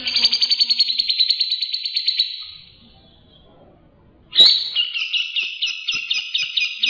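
Songbird singing two rapid trilled bursts, the 'tembakan' type of song used as masteran to train cage birds. The first trill fades out after about two and a half seconds; after a short pause, a second burst starts sharply about four seconds in, with choppier, more separate notes.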